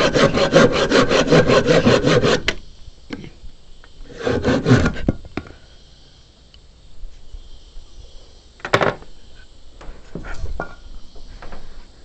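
Handsaw cutting wood in quick, even strokes that stop about two and a half seconds in, then a short burst of a few more strokes. After that come scattered knocks and handling sounds of the wood, the sharpest a little before the end.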